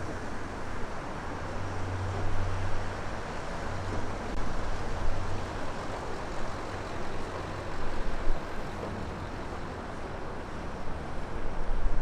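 Strong wind gusting across an unshielded microphone: a deep, rumbling buffet that swells and drops in uneven surges.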